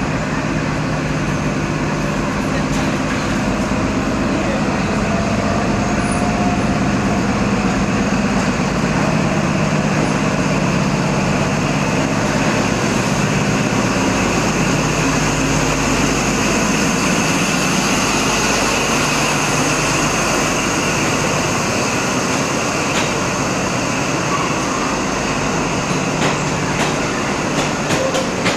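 Diesel train running at a station platform: a steady low engine hum with a constant high whine above it.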